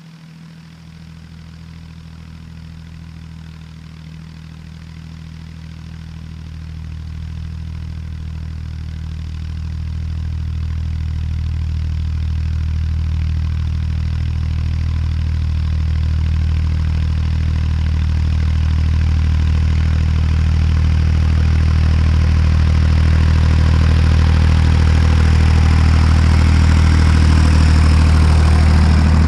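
Tractor diesel engine running at a steady pitch and growing steadily louder as it draws nearer, loudest near the end.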